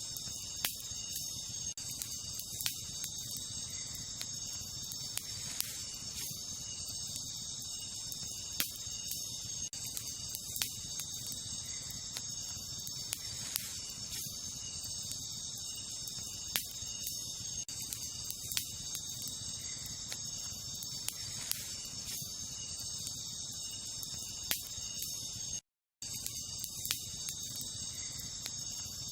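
Wood campfire crackling, with sharp pops every second or two, over a steady high-pitched chorus of night insects such as crickets. Near the end the sound cuts out for a moment.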